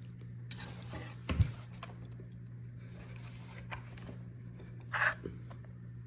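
Small handling noises while a screw is driven in with an Allen key: light clicks and rustles, a sharp knock about one and a half seconds in and a short scrape near five seconds, over a steady low hum.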